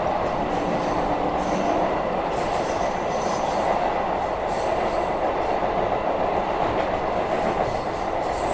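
Electric local train running through a station at speed, heard from an open doorway: a steady rumble of wheels on the rails, with a faint high squeal now and then.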